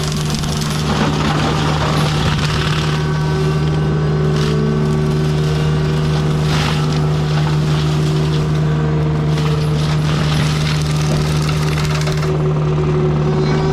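Compact tracked forestry mulcher's diesel engine running steadily at high revs while the mulching head grinds wood, with a few sharper crunches.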